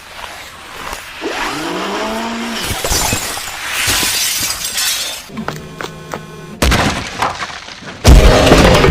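Giant robot battle sound effects: crashing and shattering debris, with mechanical whirring that glides in pitch in the first few seconds. A steady mechanical hum comes in past the middle, and a loud heavy impact lands near the end.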